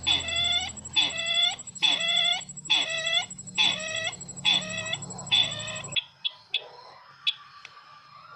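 Sisintar bird lure call, a repeated call about once a second, seven times over a steady high whine and hum. All of it cuts off suddenly about six seconds in, leaving a few clicks and faint chirps.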